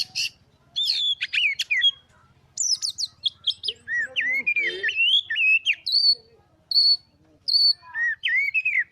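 Oriental magpie-robin (kacer) singing a varied, continuous song of clear whistled and slurred notes and quick repeated phrases. Near the end, a short high note repeats at an even pace.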